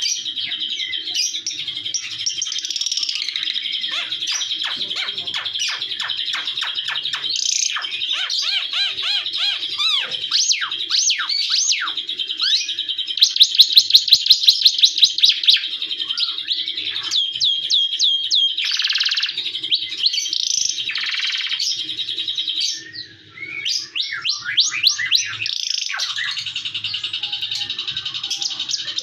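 A songbird known in Indonesia as 'ara timur mata merah' singing a long, continuous, varied song of high whistles, rapid trills and sliding notes. Near the middle comes a loud run of sharp repeated notes, about four or five a second, and the song eases briefly about two-thirds of the way through.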